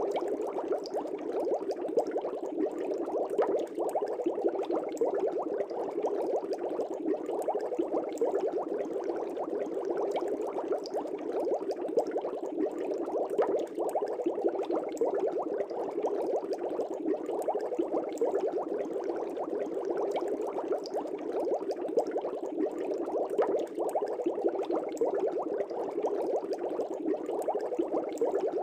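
Aquarium air bubbles rising and breaking at the water surface in a fish tank: a steady, dense bubbling with many small pops and no pauses.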